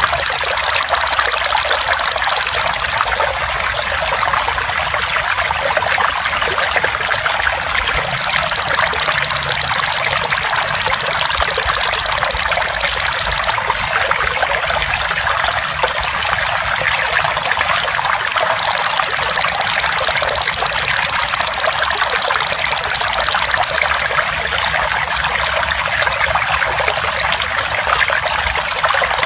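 Steady trickling water, overlaid by a loud high-pitched buzzing song of the belalang emas insect. The buzz switches on for about five seconds, then stops for about five seconds, in a regular repeating pattern.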